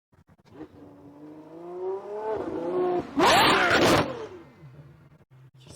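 Ferrari 812 Superfast's V12 with a Novitec straight-pipe exhaust accelerating past at close range. The pitch rises steadily, the sound peaks very loud for under a second just past three seconds in, then it fades away.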